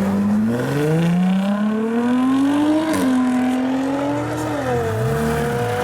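A car's engine accelerating hard: its pitch climbs for about three seconds, drops sharply at an upshift, then pulls again, easing briefly before rising once more near the end.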